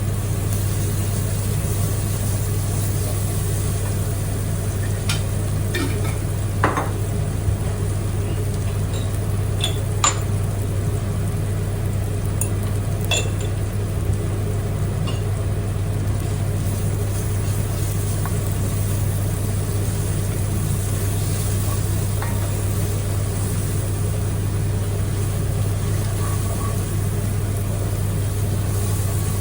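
Food sizzling in a pan over a steady low hum, with a few short clinks of a utensil stirring it, mostly in the first half.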